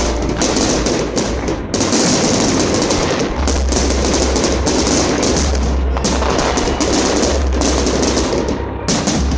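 Fireworks display in full volley: a dense, unbroken crackle of many shells and stars bursting, with deep low rumbling in stretches.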